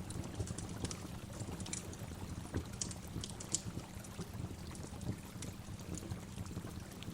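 Waterfall recording: a steady rush of falling water, with scattered short high ticks over it.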